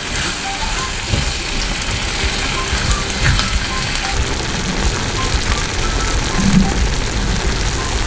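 Tomato curry sizzling and bubbling in a frying pan as it is stirred with a spatula, with soft background music.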